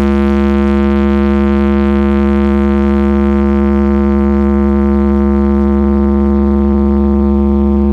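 A huge carnival sound system sounding one long, unchanging drone note, loud, with a heavy deep bass held underneath.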